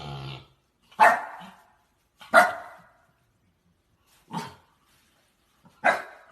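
A dog barking four separate times, a second or more apart, the third bark fainter than the others.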